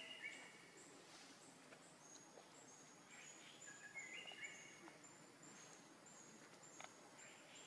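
Faint birdsong: short high chirps repeating steadily, with a few lower stepped whistle phrases at the start and again around three to four seconds in.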